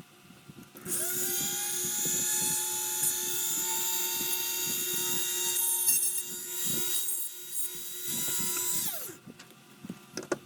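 Small electric hobby drill spinning up about a second in and running with a steady high whine while drilling a small hole through a plastic model car frame into its stand, its level dipping and wavering midway, then winding down with falling pitch near the end.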